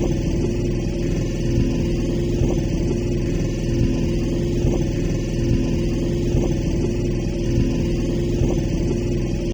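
Small sailboat's motor running steadily under way, a constant hum with an unchanging pitch. It cuts off abruptly at the end.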